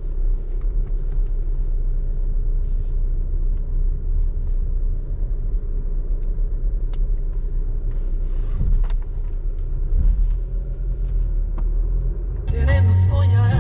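Low, steady driving rumble of a RAM Rampage Rebel pickup with its 2.2 turbo diesel, with a few light knocks over it. Music with a heavy beat starts suddenly near the end.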